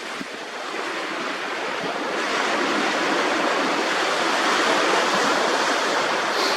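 Sea waves washing in on a sandy shore: a hissing rush that builds over the first couple of seconds and then holds steady.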